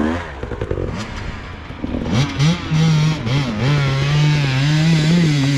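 Enduro motorcycle engine running: rough and lower for the first two seconds, then held at a steady rev from about two seconds in.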